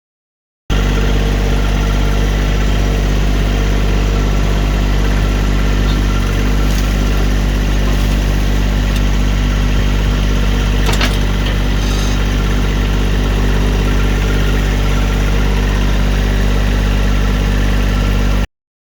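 John Deere 1025R sub-compact tractor's diesel engine running at a steady idle, with a sharp click about halfway through. The sound starts and stops abruptly.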